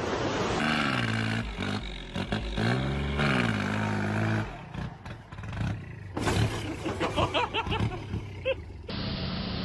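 A heavy engine revving, its pitch rising and falling for several seconds. Scattered clattering and short higher-pitched sounds follow.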